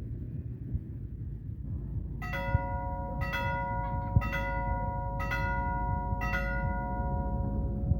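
Level-crossing warning bell from the crossing's small loudspeaker, striking about once a second with a ringing, multi-pitched tone, five strikes starting about two seconds in. It signals an approaching train, ahead of the barrier closing.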